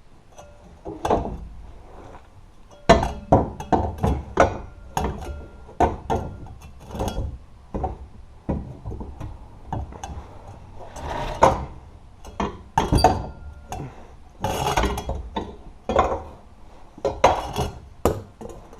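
Irregular knocks and metal clanks, one or two a second, from the freed exhaust system of a Toyota AE86 being worked loose and handled under the car.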